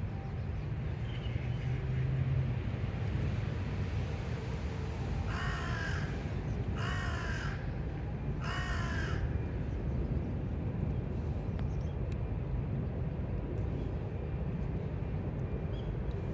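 A bird calling three times, short calls about a second and a half apart, over a steady low rumble.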